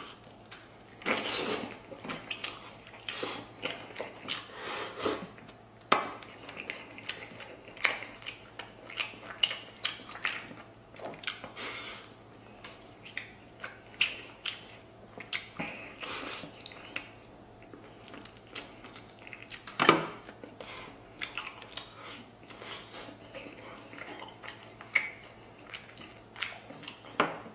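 A person eating close to the microphone: wet chewing and biting of meat, with frequent clicks of chopsticks and tableware against a dish and a few sharper knocks.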